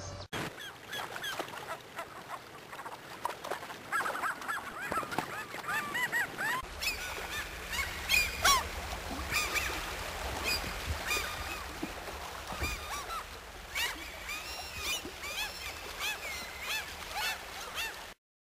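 Many birds calling over one another in short, repeated calls, with a low steady rumble underneath from about a third of the way in. The sound cuts off abruptly near the end.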